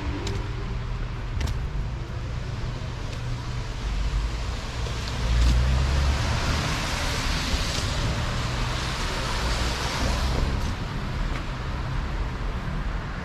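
Street traffic: a steady low rumble of road noise, with a vehicle passing close that is loudest around seven to ten seconds in.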